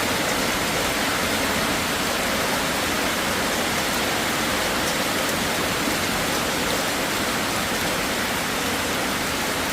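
Heavy rain pouring down steadily, an even unbroken hiss of downpour.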